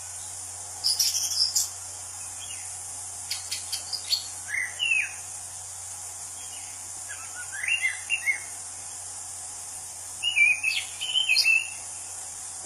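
Orange-banded thrush (anis cendana) singing in short, separated whistled phrases that bend up and down, with a quick burst of higher chirps about a second in. A steady high hiss runs underneath.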